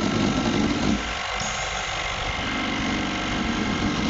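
Oxygen concentrator running steadily, its compressor making a continuous mechanical hum.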